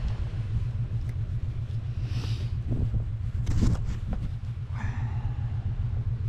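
Steady low rumble of an idling engine, with a few short clicks and knocks over it, the loudest about three and a half seconds in.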